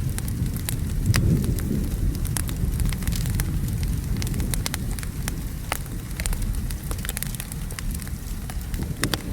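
Wood fire crackling with frequent sharp pops over steady rain and a low rumble of thunder.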